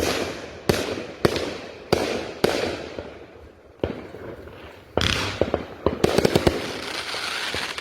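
Consumer firework shots going off in quick succession, a sharp bang roughly every half second to second, each with a short echo. A louder burst comes about five seconds in, followed by a dense run of crackling pops.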